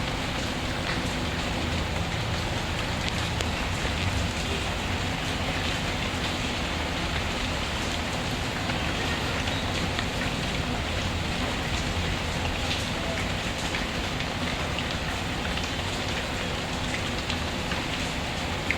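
Steady rainfall mixed with a crackling wood fire: a constant hiss of rain with scattered small pops and snaps throughout.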